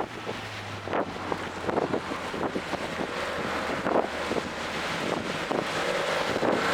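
Toyota GR Corolla lapping a track: wind buffeting the microphone over road noise and the engine, with many short knocks, growing steadily louder toward the end.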